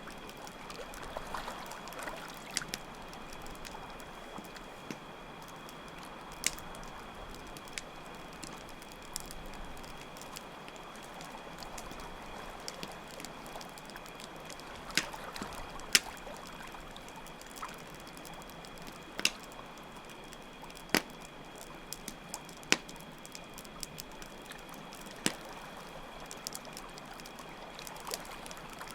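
Campfire crackling, with sharp isolated pops every few seconds, over steadily trickling water and a continuous high chirring of crickets.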